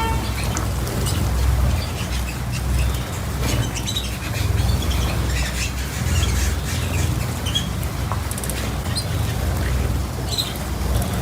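Small cage birds chirping in short, scattered calls over a steady low rumble.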